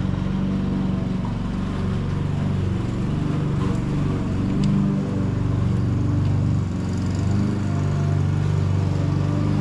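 Ford 8N tractor's four-cylinder flathead engine running at a steady idle, its speed shifting slightly a few times.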